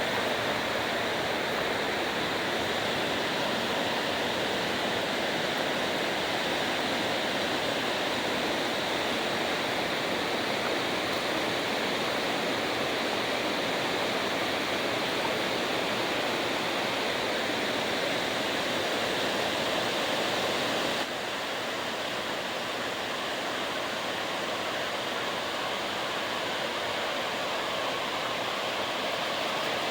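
Waterfall rushing steadily, an even wash of falling water that drops slightly in level and loses some of its high hiss about two-thirds of the way through.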